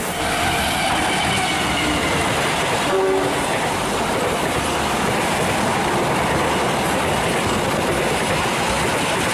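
Diesel-hauled passenger train passing close by. A loud, steady rumble of the locomotive and coaches' wheels running on the track.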